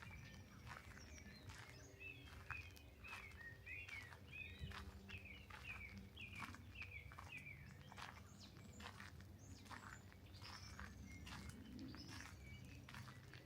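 Small songbirds chirping and twittering: a quick series of short notes sliding up and down through the first half, then higher, thinner calls later, all faint. Soft footsteps of a walker tap along underneath.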